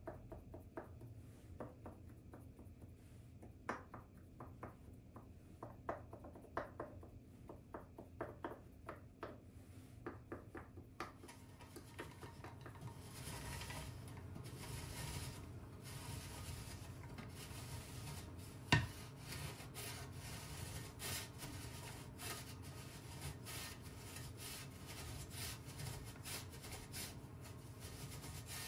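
Kitchen work sounds: light scattered clicks and taps, then from about twelve seconds in a steady run of rhythmic scraping or rubbing strokes, with one sharper knock about two-thirds of the way through.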